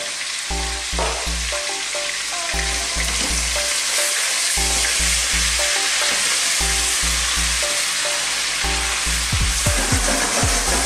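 Chicken legs sizzling and frying in hot oil and butter in a stainless steel pot, as a wooden spoon turns them, with a few knocks near the end. Background music with a steady bass line plays under it.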